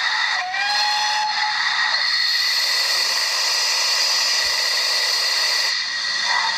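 Recorded GWR Manor-class steam locomotive sounds played through a model locomotive's sound decoder: a short whistle about half a second in, then from about two seconds a loud steam hiss that cuts off suddenly near the end.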